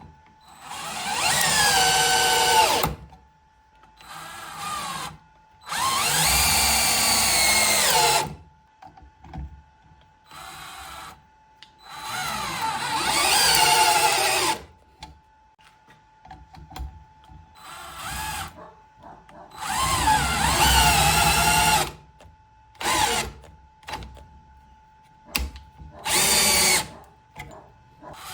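Parkside PSBSA 20-Li C3 20 V cordless drill's motor run in about nine short bursts, each whine rising and falling in pitch as the variable-speed trigger is squeezed and let go, with quiet pauses between.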